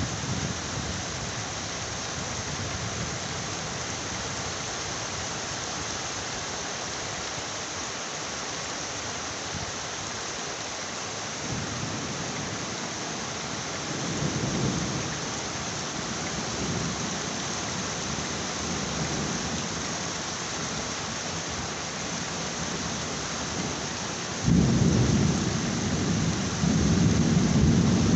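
Heavy rain falling steadily, with a few low rumbles of distant thunder in the middle. Near the end a loud thunder rumble starts suddenly and keeps rolling.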